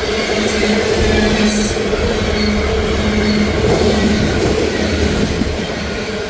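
Loaded freight train rolling past, the steel wheels running on the rail with a steady rumble and a faint, intermittent high wheel squeal.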